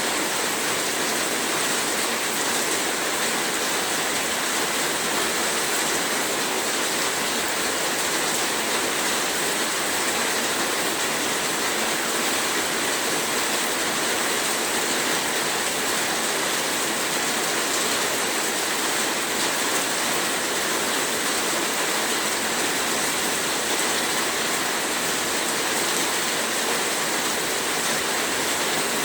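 Heavy rain falling, a steady, dense hiss of water with no let-up.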